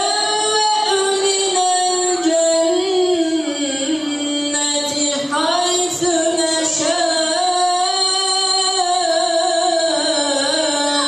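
A solo unaccompanied voice chanting in long, ornamented held notes that slide and waver in pitch.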